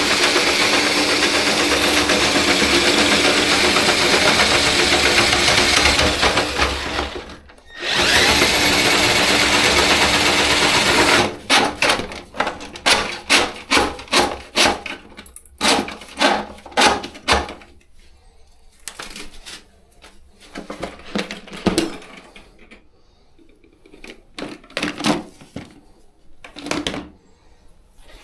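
Motorized drain-cleaning cable machine running steadily while clearing a hair clog from a shower drain. It stops briefly and restarts, then gives way to a run of uneven knocks and clatters.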